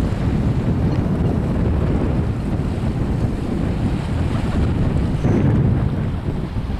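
Wind buffeting the microphone with a steady low rumble, over lake waves washing against the shore.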